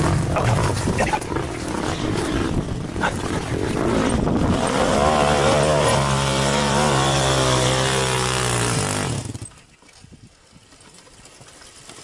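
Off-road vehicle engine running hard, settling into a steady high-revving note about five seconds in, then cutting off suddenly a few seconds before the end, leaving faint outdoor background.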